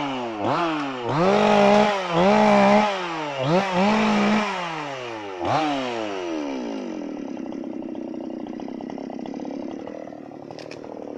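Chainsaw engine revved in about six quick blips, pitch rising and falling each time, then dropping back to a steady idle about seven seconds in.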